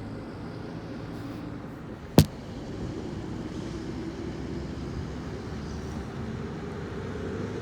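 Diesel garbage truck engines running in the yard, a steady low rumble that grows a little louder after about three seconds. About two seconds in there is one sharp, loud click.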